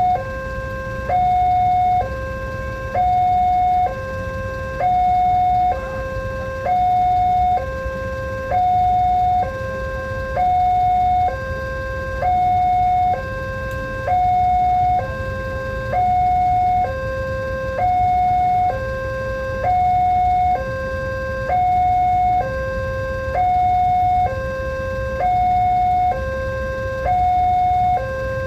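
Railway level-crossing warning alarm sounding, an electronic two-tone signal that alternates between a higher and a lower tone about once a second without a break, over a low rumble.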